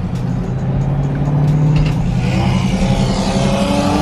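A car engine running at a steady low note, then accelerating hard about two seconds in, its pitch climbing, with a rushing hiss over it.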